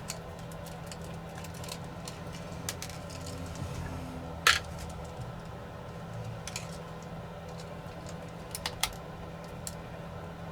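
Sparse, irregular clicks and taps of small tools and small drone parts being handled during bench repair of a DJI Mini 4 Pro, the loudest click about halfway through and a quick pair near the end, over a steady low hum.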